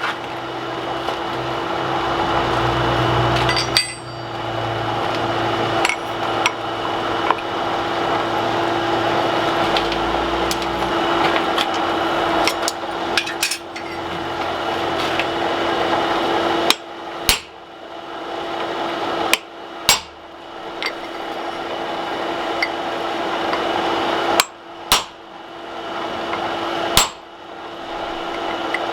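Hammer blows on hot mild steel at the anvil while forging an axe head: single strikes, a second or more apart, the loudest ones coming in the second half. Under them runs a steady hum and rush.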